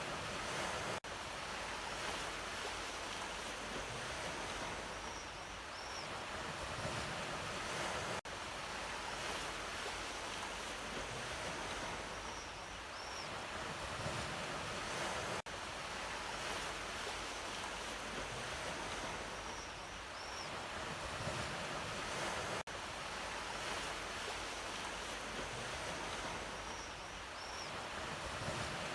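Ocean waves washing on the shore in a steady, swelling hiss of surf. The sound repeats about every seven seconds, with a brief dip at each repeat.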